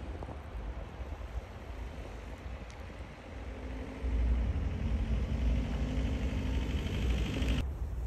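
A motor vehicle's engine running at a steady pitch, growing louder from about halfway, over a low rumble of wind on the microphone; it cuts off suddenly near the end.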